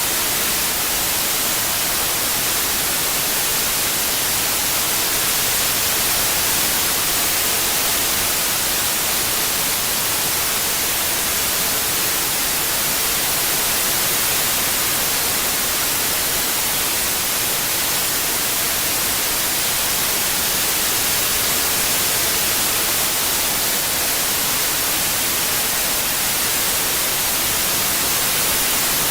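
Synthetic white noise: a steady, even hiss with no change, strongest in the treble.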